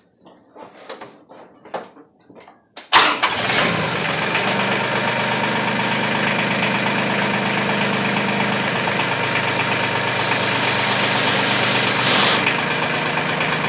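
A few light clicks, then about three seconds in the Mahindra 1526 tractor's diesel engine comes in suddenly and runs steadily with a low hum.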